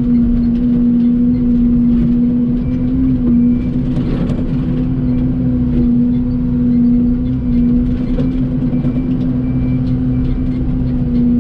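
Excavator's diesel engine running steadily at working speed, its pitch holding constant.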